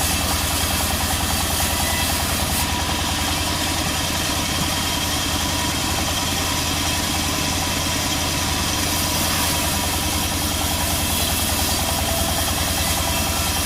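Sawmill engine running steadily at an even speed, with a fast regular firing pulse underneath.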